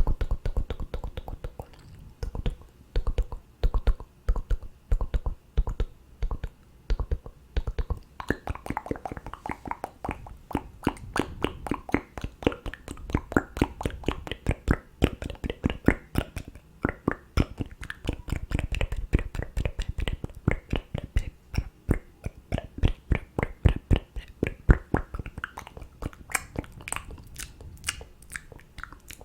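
ASMR mouth sounds close to the microphone: rapid wet clicks and pops, several a second. They are sparse and low for the first few seconds, then come thick and fast, with crisper high clicks near the end.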